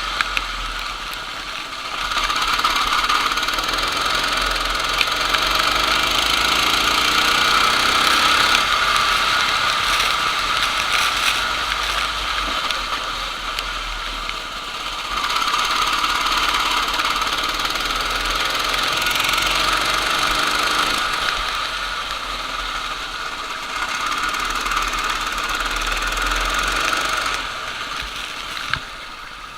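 Racing kart engine running hard, its pitch climbing as it accelerates and dropping back as it eases off, in long swells every several seconds.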